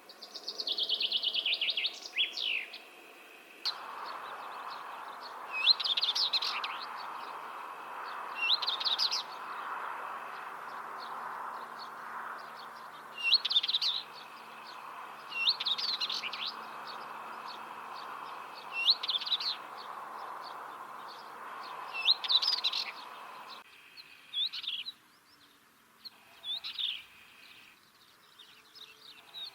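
A common chaffinch's descending trilled song ends about three seconds in. Then a northern wheatear sings short phrases, repeated every two to three seconds, over a steady background hiss that drops away near the end.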